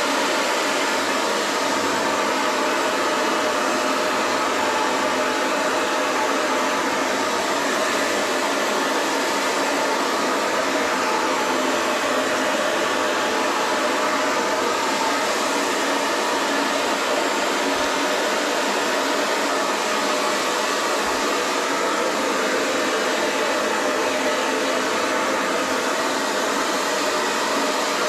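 Handheld hair dryer running steadily, its fan blowing a constant rush of air.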